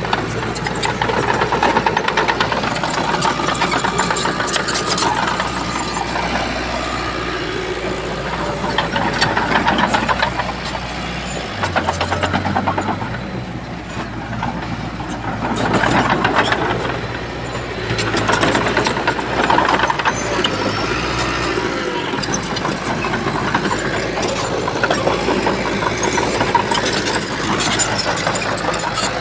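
Shantui bulldozer's diesel engine running under load, rising and falling in loudness several times as it works.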